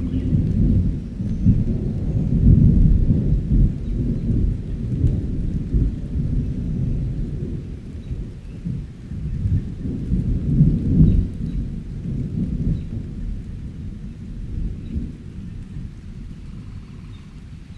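Rolling thunder rumbling low over rain, swelling twice and easing off toward the end.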